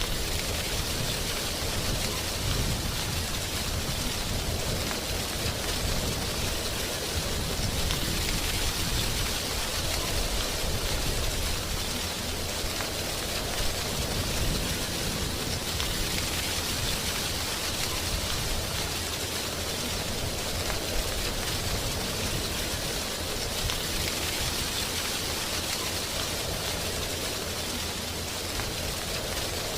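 Wind rustling through dry tree leaves, a steady hiss that swells and eases every several seconds.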